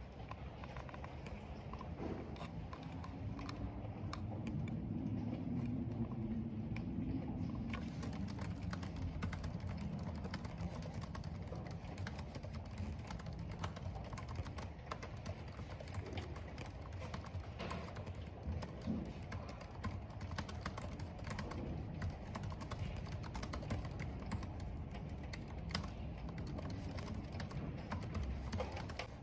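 Computer keyboard typing: a steady stream of key clicks over a low background of wind and rain, with a low swell of sound in the first ten seconds.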